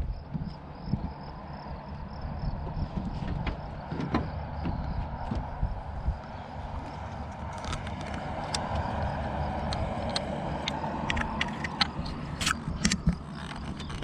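Fishing reel cranking in a hooked striped bass, its gears whirring, with a run of sharp clicks in the second half, over a steady low rumble of wind and water.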